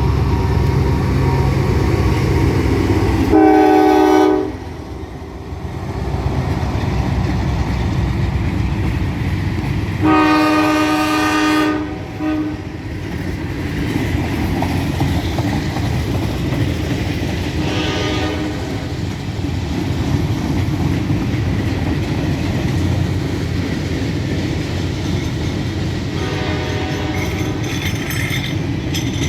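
Horn blasts from a CSX GE AC4400CW locomotive's second-generation Nathan K5LA horn: a short blast about three seconds in, a longer one about ten seconds in, then two fainter ones later. Underneath runs the steady rumble of the locomotive and the clatter of empty grain cars rolling past.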